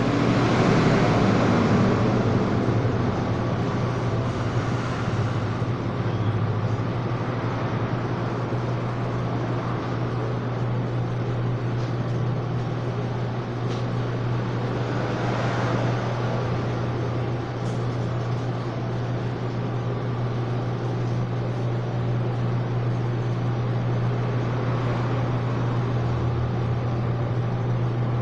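Steady mechanical hum with a constant low tone under a wash of noise, swelling briefly about a second in and again around fifteen seconds in.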